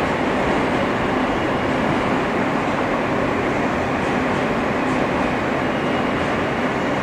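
Steady rumble and hum inside an R160 New York City subway car at a station stop, with a faint steady whine on top.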